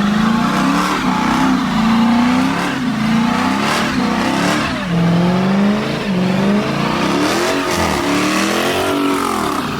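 Car engine revved hard again and again, its pitch swooping up and falling back about once a second, with a loud hiss over it.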